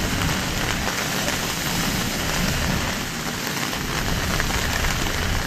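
Heavy rain from a sudden cloudburst pouring down, a steady dense hiss.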